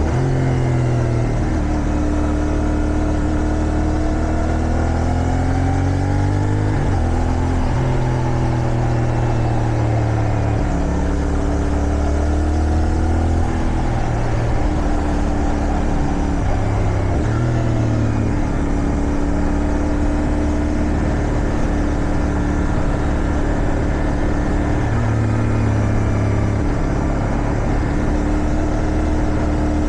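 Motorcycle engine heard while riding, over steady wind noise. The engine note rises and falls with the throttle, and drops suddenly several times at gear changes.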